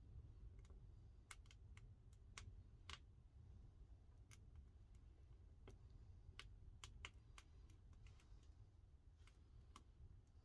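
Pine firewood burning in a wood-fired pottery kiln: faint, irregular sharp crackles and pops, one or two a second, over a low steady rumble.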